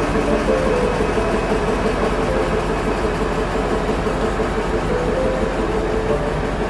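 Old tourist train running along the line: a steady, loud mix of engine and running noise with a constant low hum.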